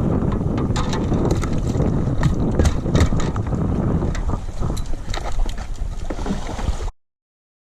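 Wind buffeting the microphone on a kayak out on open water, a heavy low rumble with scattered sharp slaps and clicks over it. It cuts off suddenly near the end.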